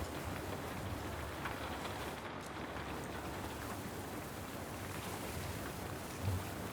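Steady rain falling, an even hiss with a few faint ticks, and one soft low thump near the end.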